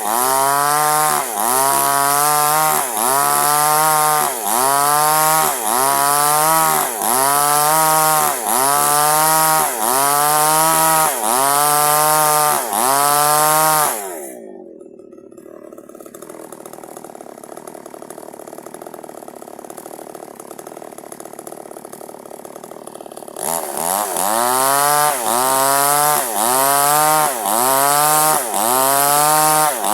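A chainsaw cutting durian wood at full throttle, its engine pitch dipping and recovering about every second and a half as the chain bites. About halfway through it drops to a steady idle for roughly nine seconds, then revs back up and resumes cutting.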